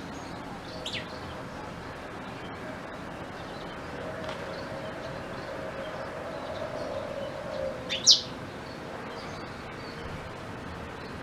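Blackthroat (black-throated canary) giving a few short, high chirps, the loudest a quick sweep about eight seconds in, over a faint steady hum.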